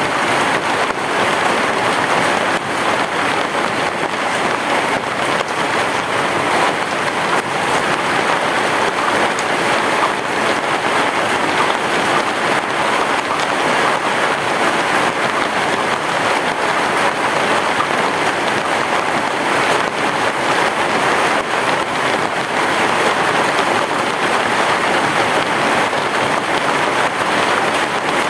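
Heavy rain pouring steadily on a roof, an even, unbroken hiss.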